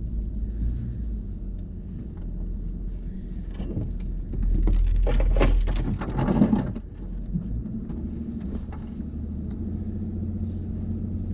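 Car driving on snowy roads: a steady low engine and road rumble, with a louder, noisier stretch about halfway through.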